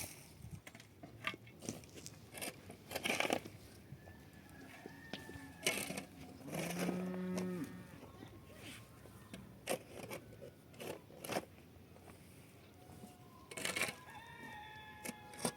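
Scattered knocks and clicks from handling things, with one steady, drawn-out call lasting about a second around seven seconds in.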